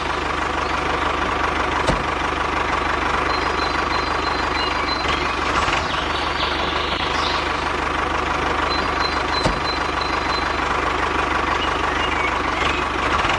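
Small engine of a DIY mini tractor running steadily, with two short clicks or knocks, about two seconds in and again about nine and a half seconds in.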